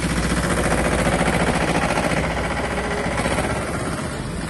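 Tractor engine running, growing louder about a second in and easing off near the end.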